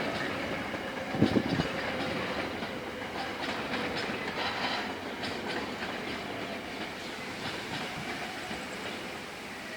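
Coal train wagons rolling past, their wheels clattering over the rail joints and junction pointwork with a heavy knock about a second in. The sound eases slightly near the end.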